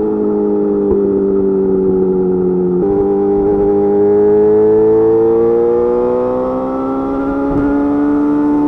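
Yamaha YZF-R6 inline-four engine through an M4 GP slip-on exhaust, heard from on the bike. The note breaks briefly at the start and again about three seconds in, like gear changes. Then it rises steadily as the bike accelerates through the gear.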